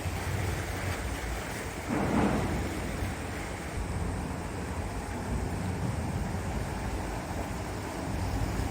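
Sanyo Shinkansen RailStar train running at speed, heard as a steady low rumble, with a louder swell about two seconds in.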